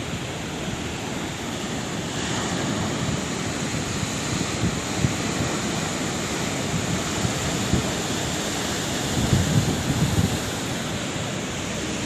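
Ocean surf: a continuous wash of breaking waves, swelling about two seconds in, with a heavier low rumble near the end.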